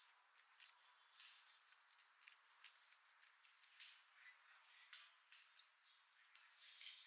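Small songbirds at a feeder giving three short, high, thin call notes that slide downward, about a second in, about four seconds in and about five and a half seconds in, amid faint scattered ticks and taps.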